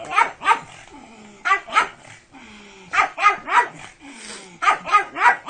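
Pug barking repeatedly in quick groups of two or three, about ten short barks in all.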